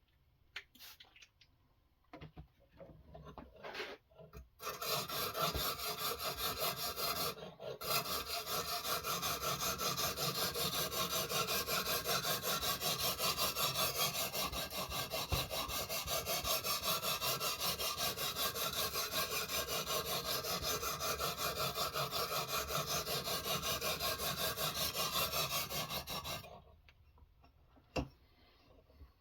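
Knife blade stroked back and forth on a sharpening stone in a guided sharpening system: a quick, even run of scraping strokes that starts a few seconds in, breaks off briefly, carries on for about twenty seconds and stops near the end.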